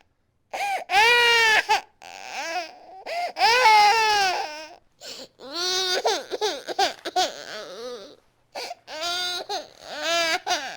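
A baby crying hard, a run of loud wailing cries broken by short catches of breath.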